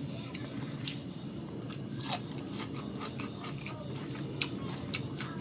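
Chewing and crunching of chili-salted mango slices, with small clicks of a fork on a plate; one sharper clink about four and a half seconds in.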